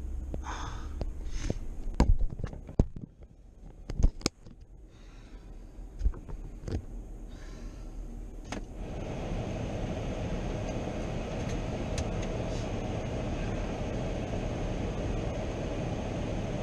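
A handful of sharp knocks and clunks, then about nine seconds in a vehicle's steady running noise starts and holds.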